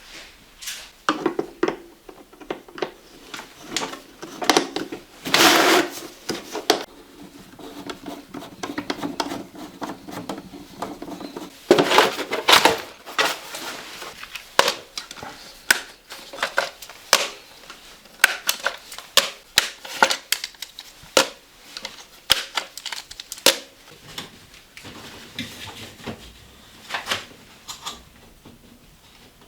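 Irregular clatter of hand work with tools and materials: scattered clicks, knocks and rattles, with two longer scraping, rustling stretches about five seconds in and again around twelve seconds.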